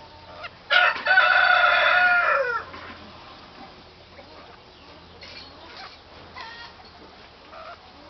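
A bird's loud cock-a-doodle-doo crow about a second in: a short first note, then a long steady note that drops in pitch at the end. A few faint short calls follow.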